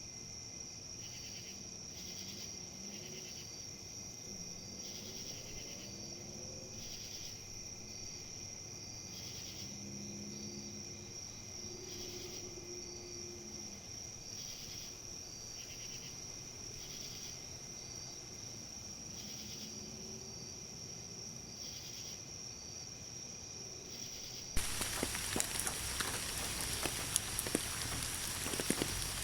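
Insects trilling steadily in a high, even chorus with a pulse about once a second. Near the end this cuts off abruptly to rain falling, with the patter of individual drops.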